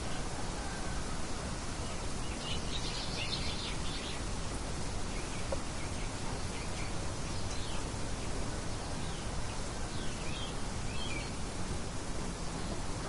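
Steady light wind with small birds chirping now and then over it: a quick run of chirps a few seconds in, and a few single calls later on.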